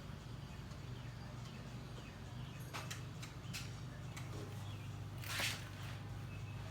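Handling noises as a 12-inch subwoofer is worked into its enclosure: a few light knocks about three seconds in and a louder scrape a little past five seconds, over a steady low hum.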